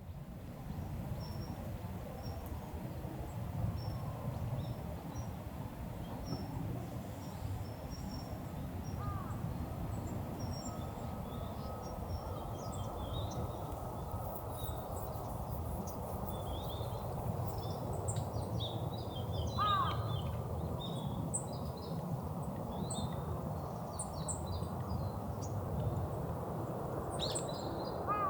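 Wild birds calling over a steady low rushing background: small birds chirp high and often, and a larger bird gives short cries about three times, near 9 s, 20 s and at the end.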